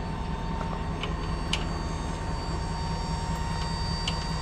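Dump truck engine running steadily with the hydraulic hoist raising the bed to dump a load: a low hum with a steady whine over it, and a few light clicks.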